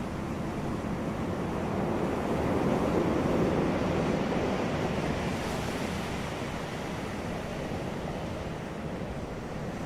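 Ocean waves breaking on a beach: a steady wash of surf that swells to a peak a few seconds in and then slowly recedes.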